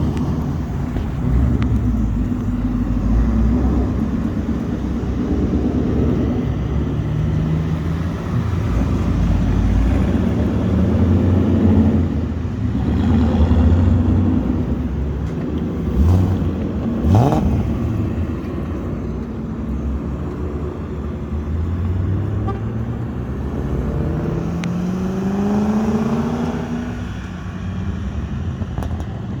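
Car and truck engines running and driving past, with revving: one engine revs sharply up about halfway through, and another accelerates with a steadily rising pitch near the end.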